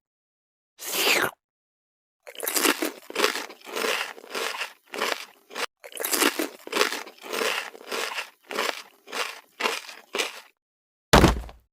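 Rhythmic crunching, about two crunches a second, each a short noisy burst with dead silence between, stopping about ten seconds in; a single heavier thump comes near the end.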